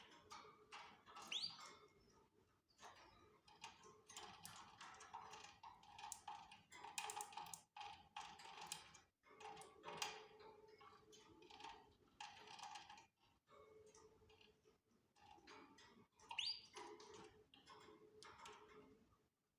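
Faint canary chirps, including two short rising calls, among scattered clicks and rustling.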